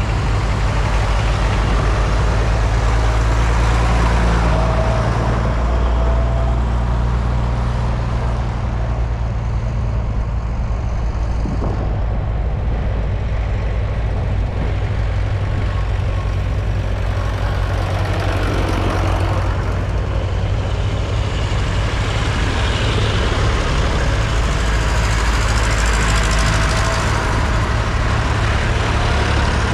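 Diesel tractor engine running steadily, with a deep low drone that holds throughout.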